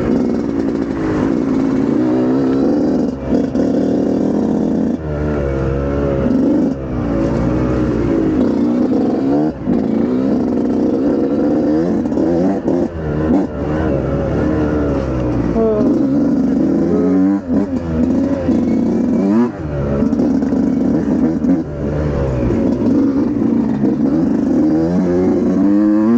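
Dirt bike engine being ridden hard, its pitch rising and falling every second or two as the throttle is opened and closed, with short drops in between.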